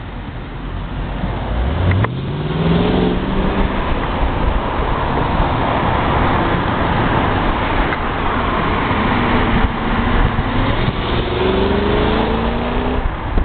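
Mercedes CL55 AMG's supercharged 5.4-litre V8 accelerating alongside, its engine note rising in pitch about two seconds in and again near the end, over steady road and wind noise.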